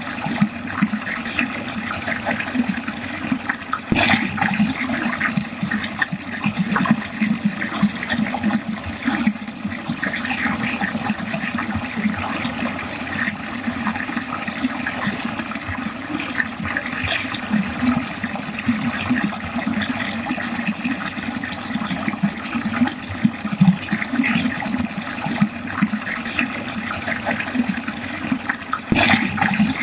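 Water draining steadily, a continuous rushing flow with a busy, flickering splash texture. A brief click cuts across it about four seconds in and again near the end.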